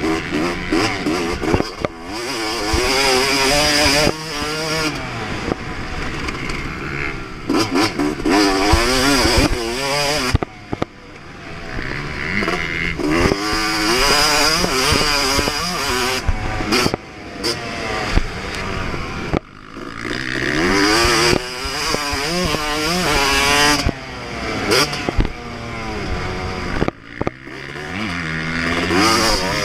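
Yamaha YZ250 two-stroke single-cylinder motocross engine at full throttle, its pitch climbing through the gears again and again, with the throttle shut off sharply for moments several times before it picks up again.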